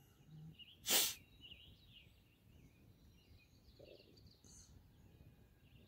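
Faint birdsong, scattered high chirps, with one short loud rush of noise close to the microphone about a second in.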